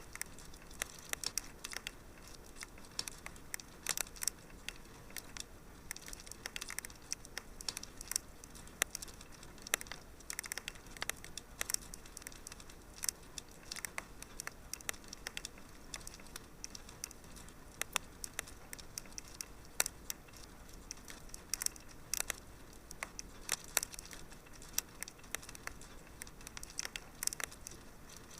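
Wood fire crackling in a fireplace: a steady stream of irregular sharp pops and snaps over a faint low hiss.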